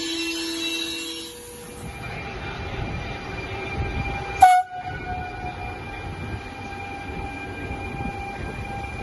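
A train rumbling through the station, with one short, sharp horn toot about halfway through.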